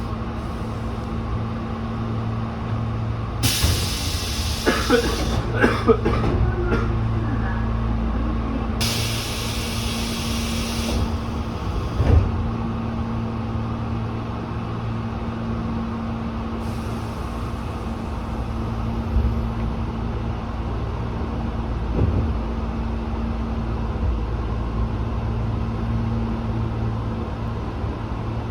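Tobu 8000-series electric train standing at a platform, its onboard equipment giving a steady hum. A sharp hiss of compressed air comes about 3.5 s in, followed by clicks and clunks, and a second air hiss comes around 9 s in as the air brakes release. The train then moves off with steady running noise and an occasional thump.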